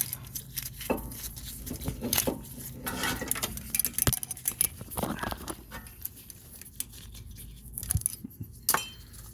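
Brake caliper and metal brake parts being handled and fitted: irregular clicks, knocks and light clattering of metal, with some rustling.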